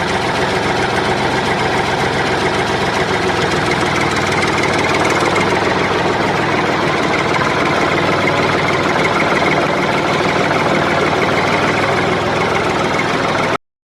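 A motor running steadily without change in speed, cutting off abruptly near the end.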